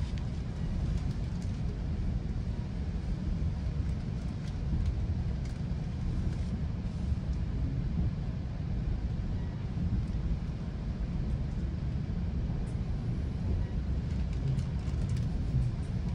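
Steady low rumble of a GO Transit commuter train running along the track between stations, with faint light clicks and rattles now and then.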